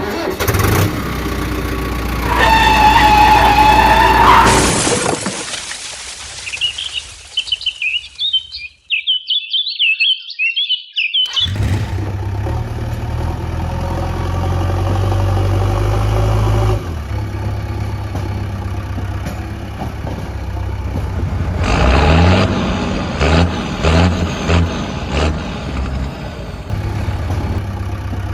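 A run of sounds: a loud sweeping tone at the start, birds chirping briefly, then a vehicle engine running steadily, rising in pitch in a few pulses near the end.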